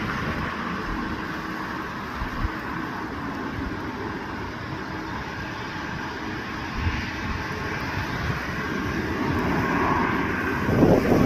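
Jet airliner's engines running with a steady whine and rush during the approach to landing in strong wind, growing louder, with a loud low rumble rising near the end.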